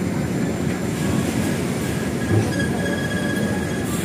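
Heavy diesel trucks rumbling with a dense, steady low noise. There is a single thud about two and a half seconds in, and a thin, steady high squeal over the second half.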